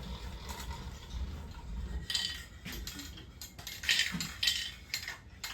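Aerosol spray-paint can spraying in short hissing bursts, one about two seconds in and a longer one around four seconds, with light metallic clinks between; the can is running out of paint.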